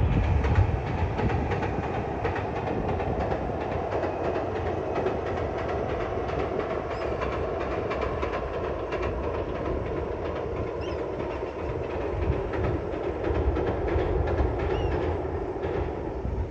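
Local passenger train passing, a steady rumble with wheels clacking over the rail joints, beginning to fade away at the very end.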